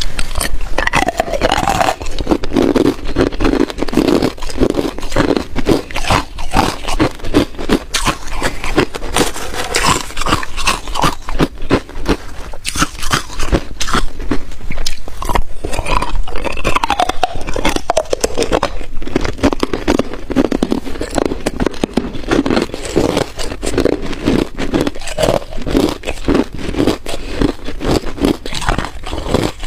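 Ice being bitten and chewed: dense, continuous crunching and cracking.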